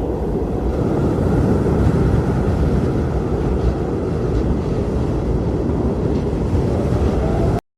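Strong blizzard wind blowing in a steady, deep rumble. It cuts off suddenly near the end.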